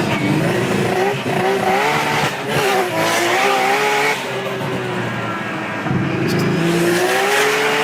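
Big-turbo Nissan Skyline running hard, its engine note rising and falling repeatedly, with tyres squealing.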